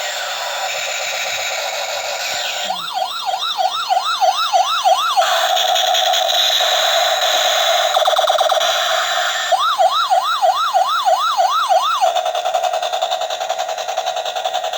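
Electronic sound effects from a battery-powered toy SWAT helicopter: a steady buzzing tone, broken twice by a fast wailing police-style siren that rises and falls about three times a second for a couple of seconds each time.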